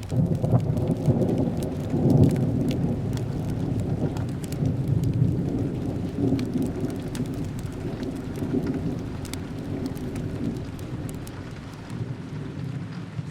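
A long roll of thunder over steady rain: it breaks suddenly, is loudest in the first few seconds, then rumbles on and slowly fades.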